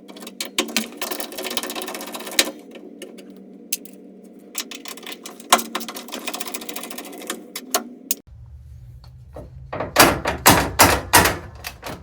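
Rapid clicks, rattles and knocks of hands working at the washing machine's plastic cover over the control board. The loudest cluster of sharp knocks comes in the last two seconds.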